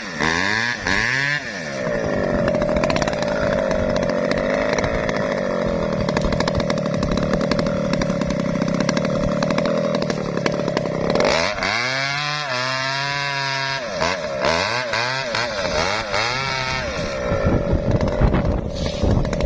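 Chainsaw cutting into an Acacia mangium trunk: the engine revs up, runs at a steady pitch under load in the cut for about nine seconds, revs up and down again, then goes back into the cut, with a few sharp knocks near the end.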